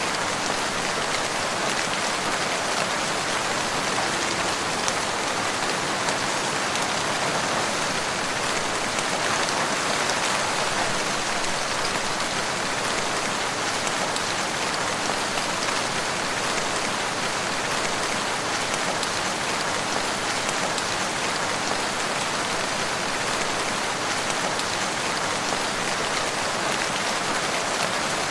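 Steady rain falling, an even hiss without a break, with a few faint pops from a wood fire.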